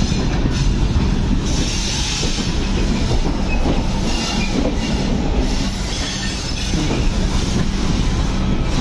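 Passenger train running along the track, the steady noise of its wheels on the rails heard from the coach's open doorway.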